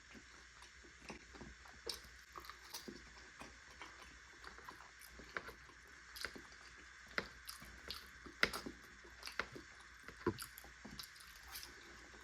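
Close-miked eating: chewing and mouth sounds, a string of irregular small wet clicks and smacks over a faint steady hiss, the loudest about eight and a half seconds in.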